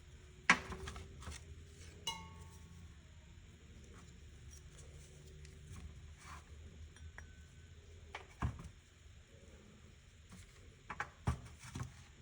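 Small metal parts and hand tools clinking and knocking against a workbench during carburetor work. There is a sharp knock about half a second in, then a light metallic clink at about two seconds that rings briefly. A few more knocks come near the end, over a low steady hum.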